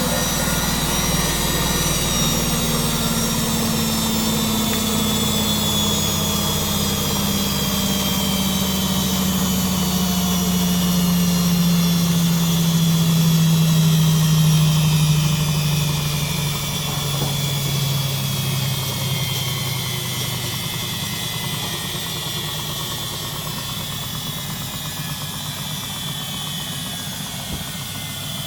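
Front-loading washing machine's motor, drive belt and drum running down from a spin, a hum and a high whine falling steadily in pitch. The sound swells about halfway through, then fades as the drum slows.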